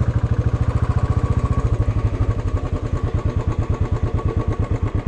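Motorcycle engine running at low revs close to the microphone, a steady rapid putter of even pulses.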